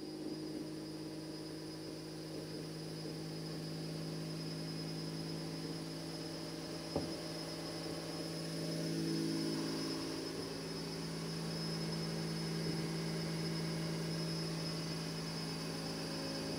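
Turbocharged Honda J35 V6 engine idling steadily, an even hum, with a single sharp click about seven seconds in.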